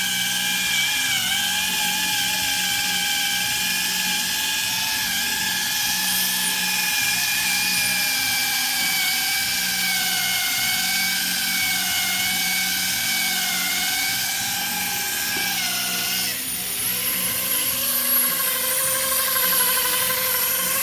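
Air-powered polisher spinning a small foam pad against a plastic headlight lens during the final ultrafine polishing step: a steady whine that wavers slightly under pressure. About three-quarters of the way through its pitch drops as the RPM is eased down near the painted edges.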